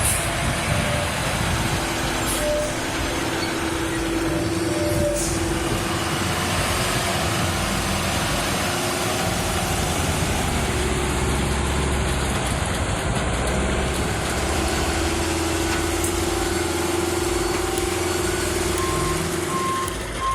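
Heavy truck engine running steadily under load, with a reversing alarm beeping in pulses near the end.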